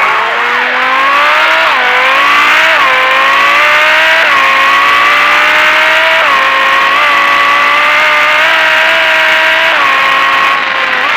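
Car engine running at high revs and accelerating. Its pitch climbs and drops back sharply several times, like gear changes, then holds mostly steady with small dips.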